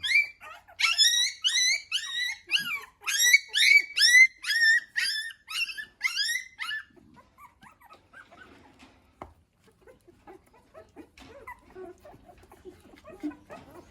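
Puppies almost two weeks old, eyes not yet open, crying in a quick run of short high-pitched squeals, about two a second. After about seven seconds the cries fade to a few faint squeaks and soft rustling.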